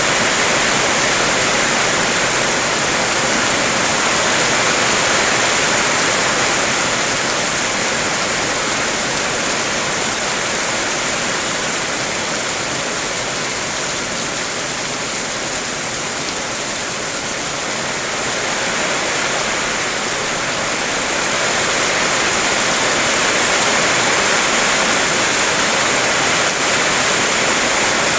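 Heavy rain falling on a car, heard from inside the vehicle: a dense, steady hiss of drops on its surfaces that eases a little midway and builds again.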